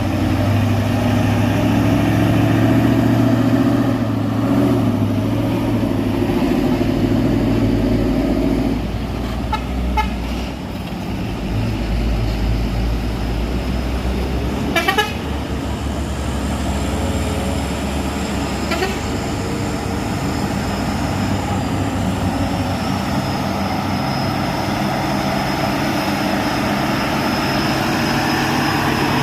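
Heavy truck engines running on a steep climb, loudest in the first third, with a short horn toot about halfway.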